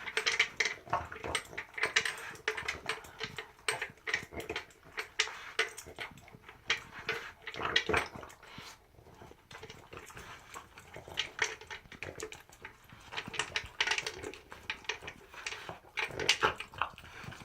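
Pug eating kibble from a plastic Outward Hound Fun Feeder maze bowl: irregular clicks and rattles of kibble and teeth against the plastic ridges, mixed with the pug's breathing and mouth noises at the bowl.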